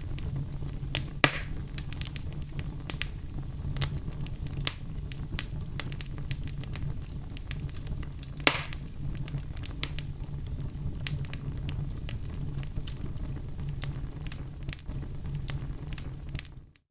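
Wood fire crackling in a fireplace: a steady low rumble of flames with scattered sharp pops and crackles, two of them louder, about a second in and past the middle. The sound drops out briefly right at the end.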